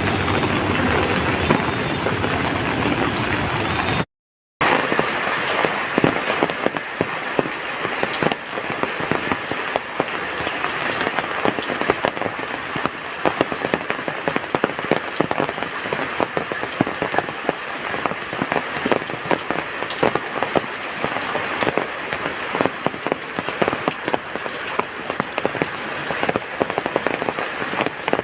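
Heavy rain falling, a dense patter of drops striking surfaces. About four seconds in the sound cuts out for half a second, then returns with the drops sharper and more distinct.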